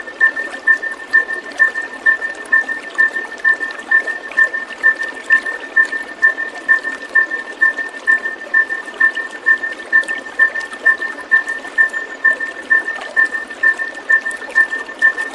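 Steady running or trickling water with a short, high chirp repeating evenly about four times a second at one unchanging pitch.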